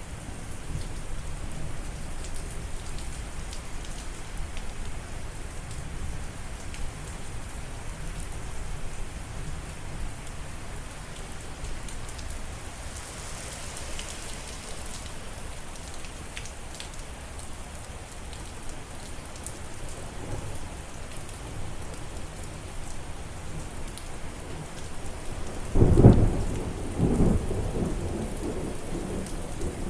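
Steady rain with low rolling thunder, then near the end a loud, sudden thunderclap followed by a few more rumbling cracks.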